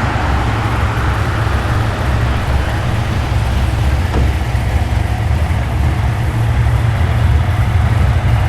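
Muscle car's engine running with a deep, steady exhaust rumble, getting a little louder toward the end.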